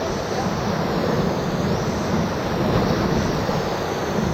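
Steady rush of whitewater around a raft surfing a small river wave.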